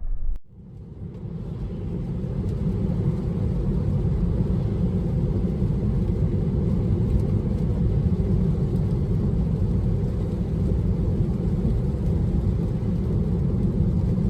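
Steady low rumble of road and tyre noise heard inside a Tesla's cabin while it drives along. The sound cuts out sharply about half a second in, then fades back up to a steady level.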